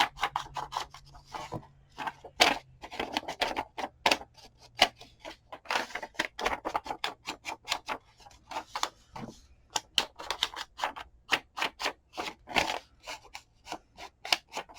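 Rapid, irregular tapping and clicking of hand craft work on paper, several sharp taps a second, mixed with a few short scrapes.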